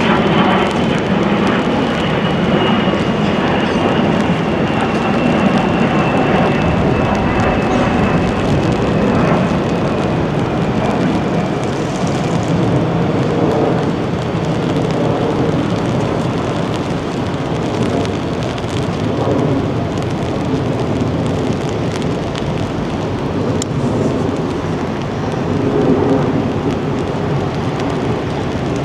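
Wind buffeting the microphone with rain falling, a steady rushing noise. A faint whine slides slowly down in pitch over the first dozen seconds.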